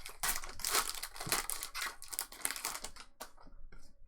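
Plastic-foil trading card pack wrapper crinkling as it is torn open and handled, a dense crackle for the first three seconds that thins to a few small crackles near the end.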